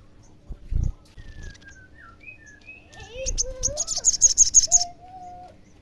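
Olive-backed sunbird singing: thin whistled notes, then about two seconds in a fast run of high, sharp chirps at roughly eight a second, the loudest part. A short low thump comes about a second in.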